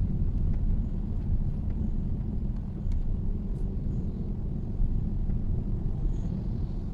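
Steady low rumble of a Mitsubishi Xpander on the move: engine and tyre noise heard from inside the cabin, with a few faint ticks over it.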